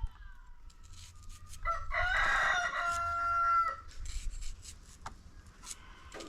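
A rooster crowing once, a drawn-out call of about two seconds that starts near the second mark.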